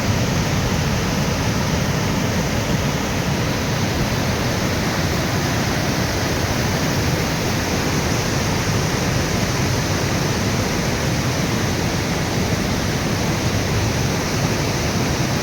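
Waterfall's water falling and splashing in a steady, loud rush.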